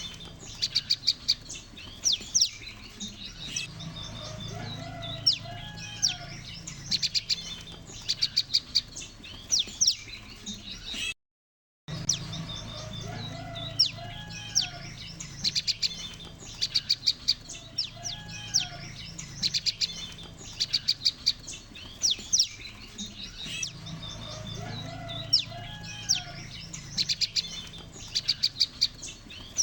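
A flock of prenjak lumut calling, played as a lure sound for bird trapping: bursts of rapid, sharp chipping notes mixed with short slurred whistles, coming every second or so. The recording drops out briefly about eleven seconds in, and a faint low hum runs underneath.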